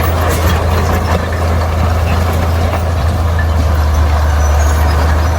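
Heavy diesel engine of earthmoving machinery running steadily, with an even low drone that does not rise or fall.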